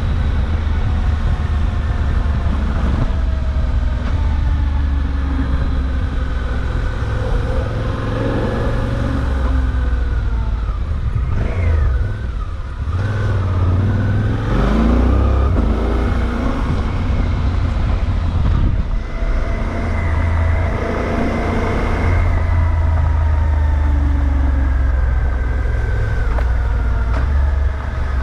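Suzuki V-Strom 800DE's 776 cc parallel-twin engine under way, its pitch rising and falling as it accelerates and changes gear, over a strong low wind rumble on the microphone.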